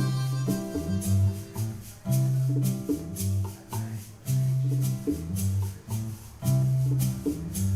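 Live band playing an instrumental passage: a guitar plays a rhythmic line over a pulsing bass pattern, with a maraca-like shaker keeping time.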